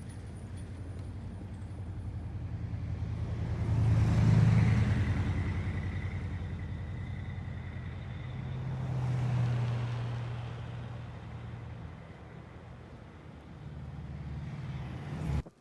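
A vehicle engine running with a steady low hum. It swells louder about four seconds in and again about nine seconds in, then cuts off abruptly at the very end.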